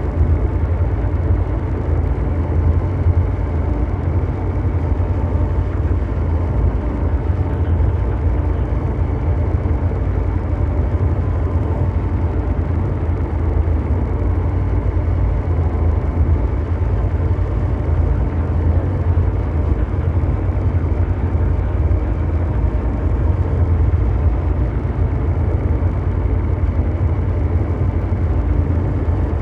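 Continuous ambient mechanical drone noise: a deep, steady rumble with a faint hum of tones and noise above it, unchanging throughout.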